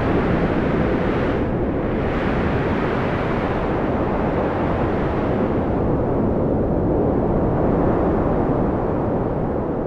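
Strong wind blowing in a steady deep rumble that swells and eases slightly.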